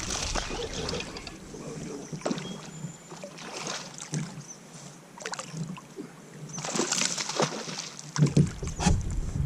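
Water sloshing and trickling around a fishing kayak, with scattered light knocks and clicks. The splashing is strongest near the start and again about two-thirds through.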